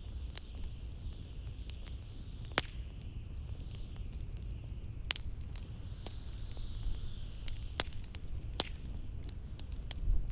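Wood fire crackling with scattered sharp pops over a steady low rumble of blizzard wind. A thin, high howl of wind swells and falls, rising in pitch a little after halfway.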